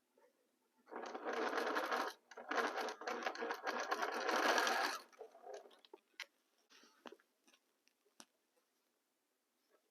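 Sewing machine stitching in two runs, about a second and then about two and a half seconds, with a brief stop between, followed by a few faint clicks.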